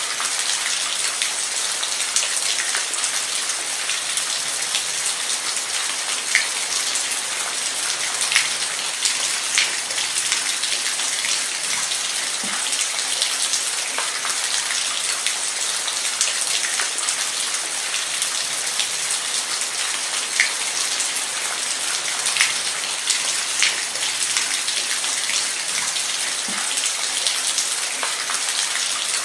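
Steady rain falling, a dense hiss with frequent close, sharp drops striking a surface.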